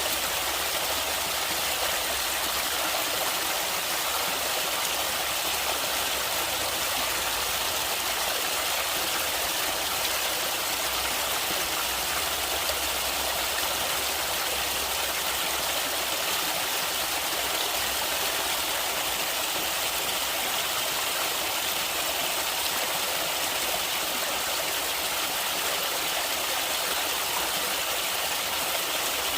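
Steady rush of flowing river water, an even hiss with a faint low rumble underneath.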